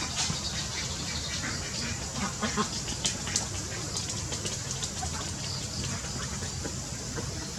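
Birds calling: a run of short, high chirps, with a few lower calls about two seconds in, over a steady low background rumble.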